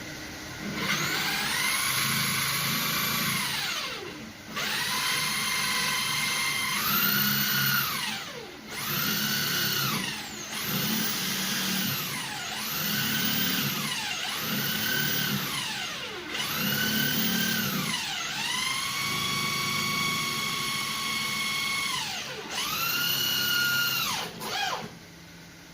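Electric power drill run in about ten short trigger bursts. Each time the motor's whine rises quickly to speed, holds, then winds down; one longer run comes past the middle.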